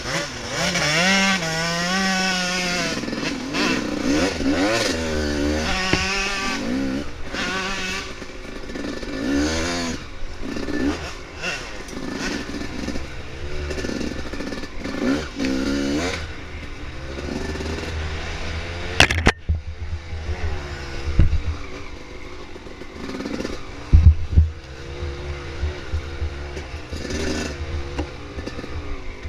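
Dirt bike engine revving up and down under throttle, its pitch rising and falling again and again, then running lower and steadier in the second half with a few loud knocks.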